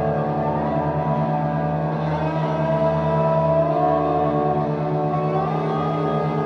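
Live experimental drone/noise music: a dense wall of sustained electronic tones, several pitches slowly gliding up and down over a fast-pulsing low tone, at a steady loud level.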